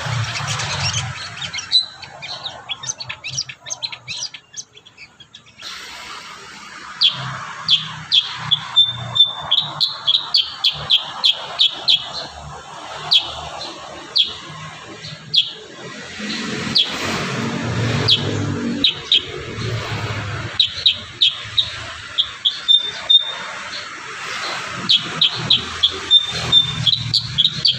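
Kurincang songbird singing in rapid strings of sharp, high chirps and short trills, with brief pauses between phrases.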